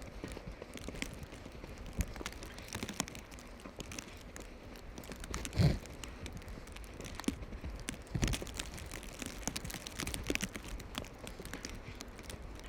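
Footsteps crunching in snow, irregular crunches and clicks over a faint steady background, with a louder thump about halfway through and another a couple of seconds later.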